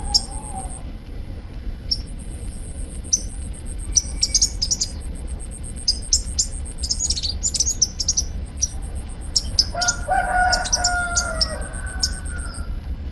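Sunbird ('kolibri ninja') calling in short, sharp, very high chirps, singly and in quick runs, with a rooster crowing about ten seconds in. A thin high steady buzz comes and goes behind them over a low hum.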